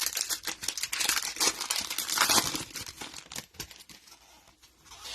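Crinkling and tearing of a trading-card pack's foil wrapper being opened. It is a dense crackle for about three seconds, loudest a little past two seconds, then dying down to faint rustles.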